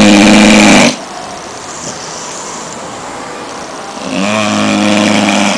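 American Staffordshire Terrier puppy snoring loudly in its sleep: one snore ends about a second in, and another starts about four seconds in, each a steady, low-pitched drone.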